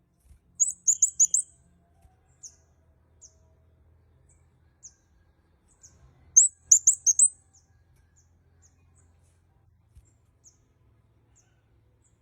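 A kemade kepala merah bird calling with very high, thin chirps. It gives a quick run of chirps near the start and another about halfway through, with scattered single chirps between and after.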